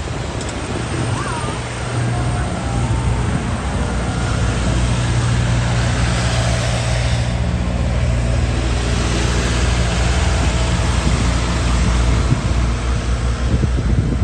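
A motor vehicle's engine running close by with a steady low hum that gets louder about two seconds in, and road noise swelling briefly around the middle, as of a vehicle passing.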